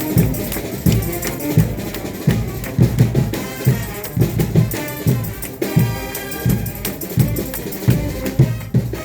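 Frevo music with a driving drum beat of about two hits a second, percussion and tambourine. A sustained pitched phrase comes in about midway.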